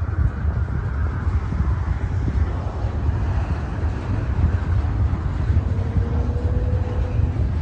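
Train rumbling, with wind buffeting the microphone.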